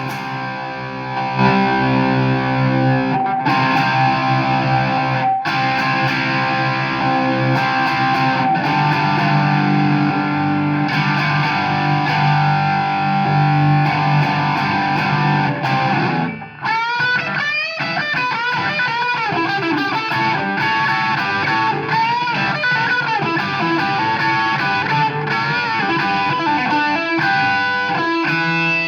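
Overdriven electric guitar played through a Marshall AFD100 valve amp head, giving a crunchy, distorted hard-rock tone. For about the first 16 seconds it plays held chords with a heavy low end. After a brief break it moves to single-note lead lines with string bends.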